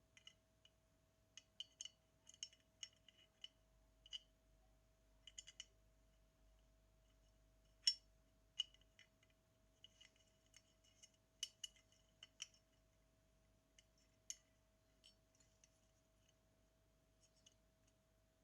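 Irregular light clicks and taps of small tools and parts being handled on a Zenit TTL camera under repair, about two dozen over the stretch, the loudest a little under halfway through. A faint steady hum sits underneath.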